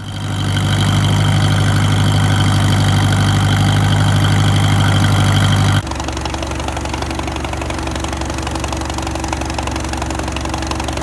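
Farm tractor engine running steadily, then dropping abruptly to a lower, slower speed about six seconds in.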